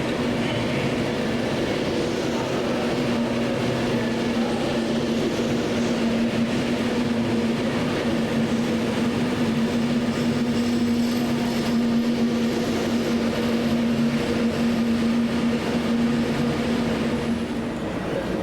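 A train running, a steady rumble with a constant hum that stops near the end.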